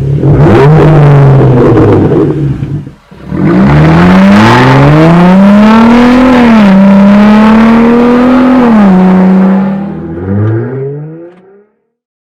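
Jeep Wrangler JL's 3.6L V6 running through a Flowmaster Outlaw cat-back exhaust. It starts with a steady note, then revs up with a rising pitch, steps down, holds and falls away. The sound cuts off suddenly near the end.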